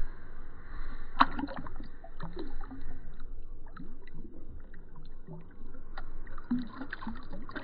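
Water sloshing and gurgling, with scattered small splashes and knocks.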